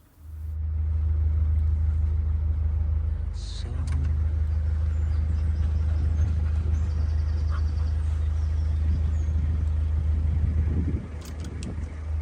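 Narrowboat's diesel engine running steadily as the boat cruises, a deep low rumble that eases a little about eleven seconds in.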